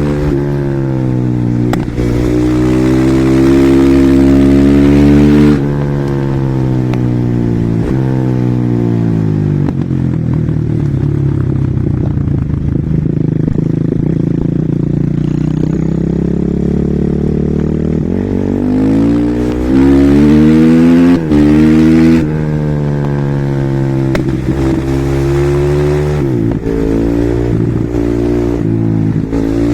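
Husqvarna SMR 450 supermoto's single-cylinder four-stroke engine, with a Keihin FCR41 carburettor, ridden hard: it revs high and loud under full throttle, drops in pitch as the throttle closes, then climbs through the revs again. This happens several times.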